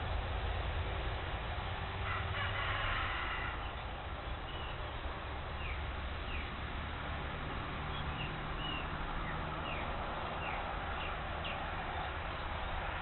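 Wild birds calling: a harsh, buzzy call about two seconds in, then a string of short descending chirps, over a steady low rumble of wind or background noise.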